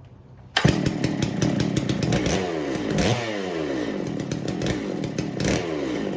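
A newly built 92cc two-stroke chainsaw, a Farmertec clone of the Stihl MS660, catches and starts about half a second in, then runs with its throttle blipped so the engine revs sweep down and up several times. The builder thinks the idle may need adjusting.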